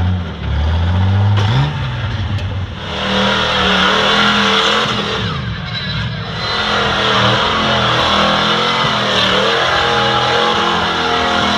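Off-road truck engine revving, its pitch rising and falling repeatedly.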